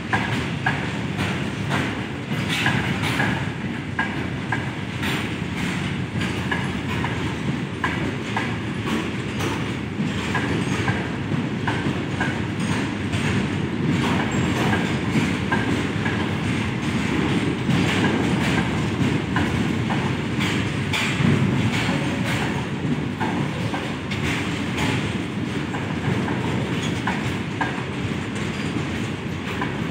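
Covered goods wagons of a long freight train rolling past: a steady rumble of steel wheels on rail, broken by frequent clicks as the wheelsets cross rail joints.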